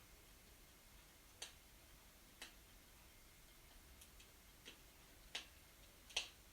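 Wood fire burning in a fireplace: faint crackling with about six sharp, irregularly spaced pops, the loudest one near the end.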